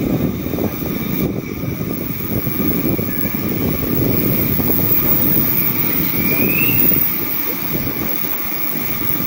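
Meitetsu electric train running along the Nagoya Main Line: a steady, loud rumble of wheels on rail, with a short rising squeal about six and a half seconds in.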